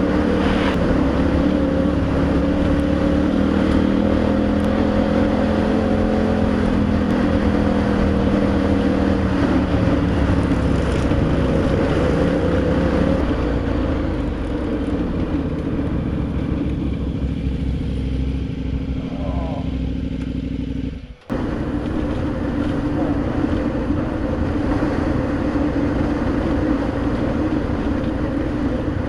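Adventure motorcycle's engine running under way, its pitch easing down over the first several seconds as the rider rolls off, over steady road and wind noise. The sound cuts out abruptly for a moment about two-thirds of the way through, then resumes.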